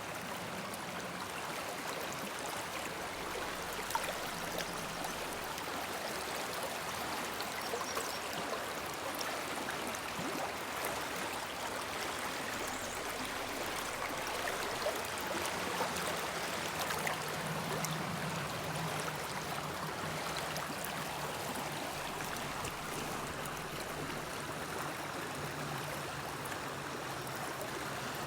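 River water running steadily, an even rushing wash. A faint low hum comes and goes beneath it.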